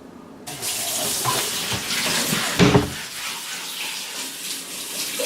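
Water running from a tap into a sink, starting suddenly about half a second in, with a dull knock a little before halfway.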